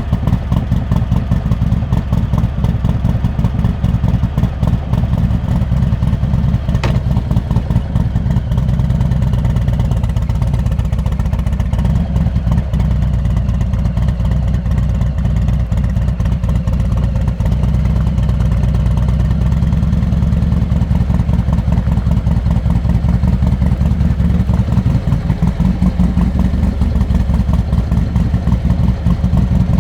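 Harley-Davidson Heritage Classic 114's Milwaukee-Eight V-twin running through a Rinehart exhaust with a deep, fast pulsing beat. The note holds fairly steady and climbs a little in pitch near the end.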